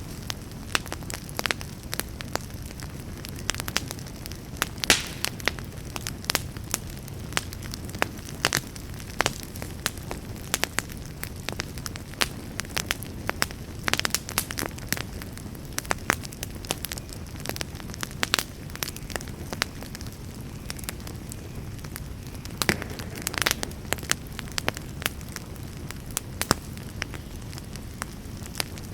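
Campfire crackling, with frequent irregular sharp pops over a low steady rumble.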